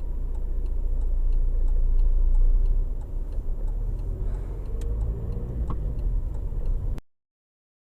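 Steady engine and road noise of a moving car heard from inside the cabin, with a faint, evenly spaced ticking over it; the sound cuts off abruptly about seven seconds in.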